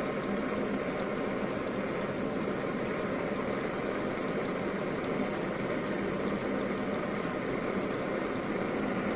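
Propane-fired Warp 5 Stirling engine running steadily as a generator, together with its cooling fan and small water pump: an even, quiet running hum with a faint steady tone, unchanging throughout.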